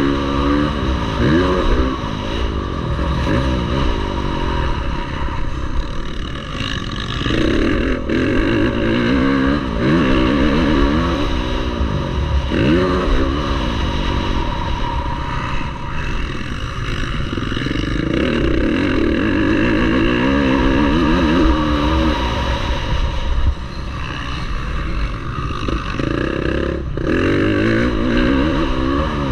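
Motocross bike engines revving hard, the pitch climbing and dropping again and again as the throttle is worked and the gears change.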